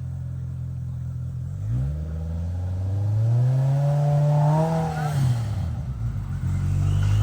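Side-by-side UTV engine idling, then revved up with a rising pitch for about three seconds before dropping back to idle around five seconds in.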